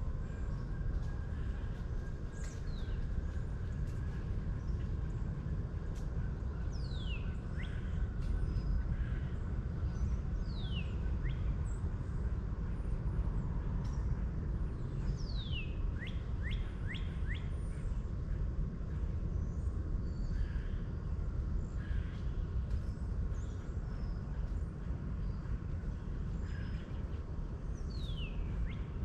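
Birds calling outdoors: several sharp whistles sliding downward in pitch, spaced a few seconds apart, and a quick run of short chirps about halfway through, over a steady low rumble.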